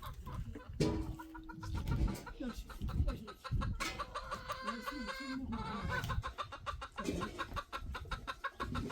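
Chickens clucking in rapid repeated notes, with low knocks and rumbles underneath.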